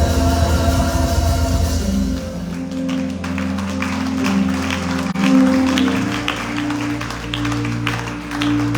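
Church worship music: sustained keyboard chords over a steady bass note. Light, evenly spaced taps join in about two and a half seconds in.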